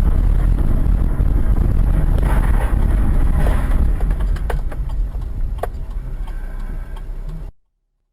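Loud, steady low rumble of a moving car, with two sharp clicks about halfway through; it fades a little and then cuts off abruptly shortly before the end.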